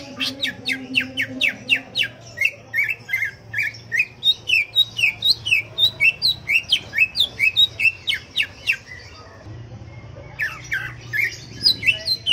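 Cucak ijo (greater green leafbird) singing in a rapid, loud run of short, sharp, down-slurred notes at about four a second. It breaks off about nine seconds in and resumes a second or so later.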